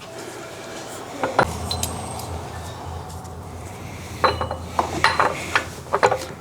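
Metal tools and rear-end parts clinking and clattering in scattered clicks, most of them in the second half, with a low steady hum coming in about a second and a half in.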